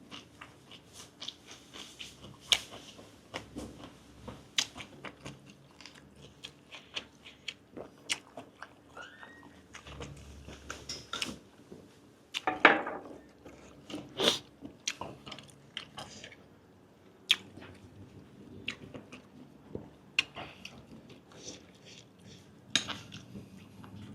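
Close-up eating sounds of grilled giant octopus tentacle being chewed: a steady run of short wet smacks and clicks, with a louder smack about twelve and a half seconds in.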